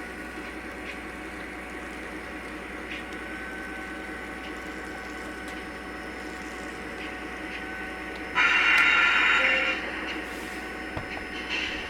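Model Norfolk Southern Dash-9 diesel locomotive running, its onboard sound system playing a steady diesel rumble. About eight seconds in the horn gives one loud blast of about a second and a half, and a short, fainter toot follows near the end.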